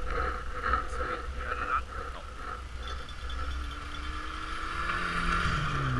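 Rally car engine approaching over a steady low rumble, its note rising slowly from about halfway through and dropping sharply near the end as the car goes by.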